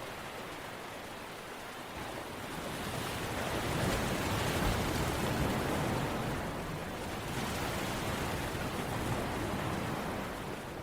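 Steady rushing water noise of a rain or surf ambience, swelling louder a few seconds in and easing off again near the end.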